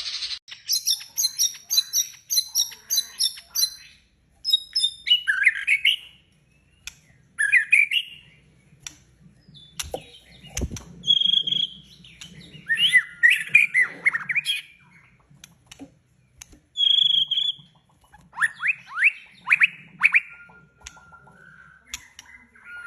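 Small birds chirping and calling, with bouts of rapid high chirps and quick downward-sweeping notes.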